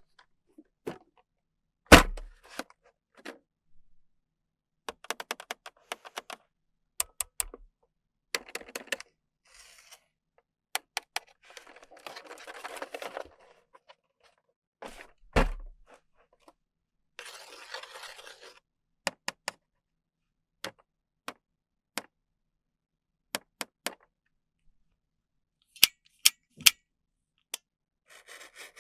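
Paw Patrol toys and their packaging being handled: scattered light clicks and taps, two louder thunks about two seconds in and again near the middle, and a few short stretches of rustling packaging.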